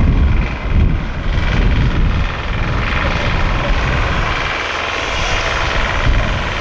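A large engine running steadily, with a heavy low rumble and a continuous drone.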